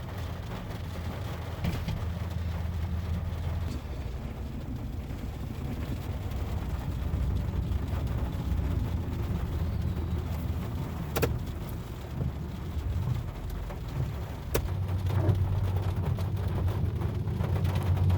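Diesel locomotives of a freight train rumbling steadily as the train approaches, growing louder near the end, with a couple of sharp clicks partway through.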